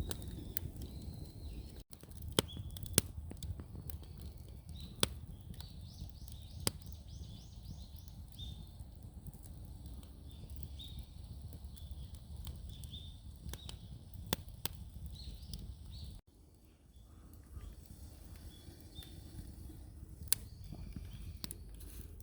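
Wood fire in an irori hearth crackling, with sharp pops every few seconds. Wild birds call throughout, with a quick run of repeated high notes among them.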